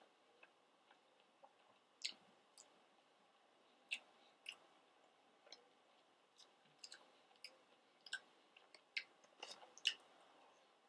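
Faint chewing of fried chicken nuggets and fries: scattered soft mouth clicks, about one a second, over near silence.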